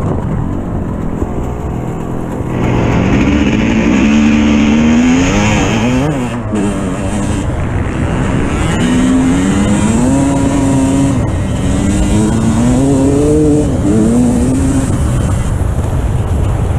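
Dirt bike engine revving, its pitch climbing and dropping over and over as the bike accelerates and shifts.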